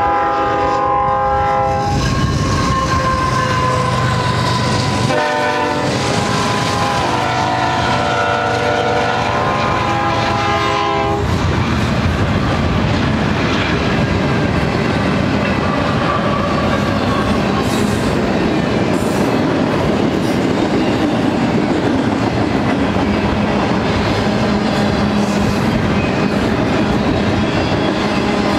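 BNSF GE C44-9W diesel locomotives sound their air horn in long chorded blasts for the grade crossing: one blast at the start, then a longer one with a brief break that stops about eleven seconds in. After that the locomotives and a long double-stack container train roll past with a steady rumble and wheels clacking over the rail joints.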